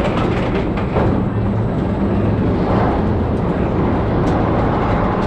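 Vekoma mine train roller coaster rolling along its track: a steady rumble with a few clicks in the first second.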